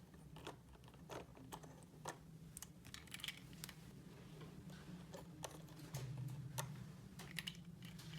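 Small plastic toy pieces being handled, giving irregular light clicks and taps over a low steady hum.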